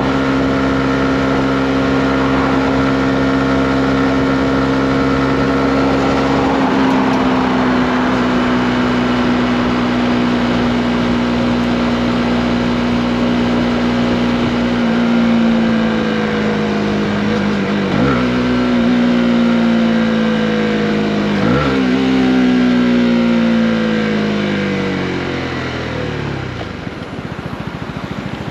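Honda CB125R's single-cylinder four-stroke engine under way. It holds a steady pitch, then the revs fall as the bike slows. Two downshifts, each with a quick throttle blip that lifts the pitch, let the revs sink low near the end as the bike comes almost to a stop.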